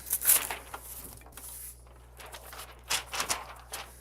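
Sheets of cardstock being handled: a series of short paper rustles and slides, the loudest just after the start and again about three seconds in.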